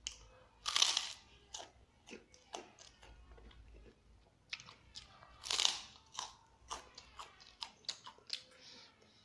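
Close-mic'd eating: crisp food bitten and chewed, with two loud crunches, about a second in and about five and a half seconds in, between many short wet chewing clicks.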